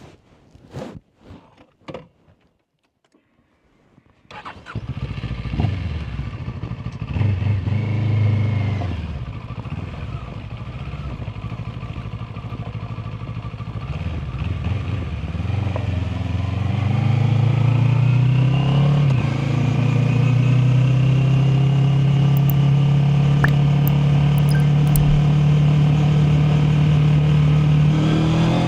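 A few short clicks and handling knocks, then the Mash FR 750 motorcycle's engine starts about four seconds in. It is revved sharply a couple of times and settles to idle. From around sixteen seconds its engine speed rises and holds steady and loud.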